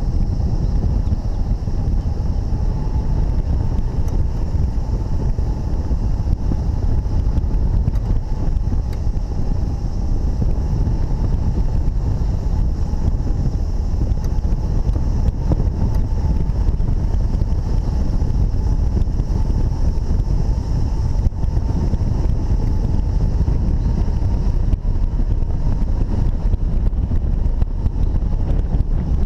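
Steady, loud wind rushing over the microphone of a hang glider in flight in strong wind, with a faint steady high tone held underneath.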